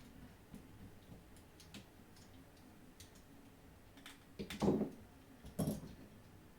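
Faint scattered clicks and taps from handling small parts and tools, then two louder knocks, about four and a half and five and a half seconds in.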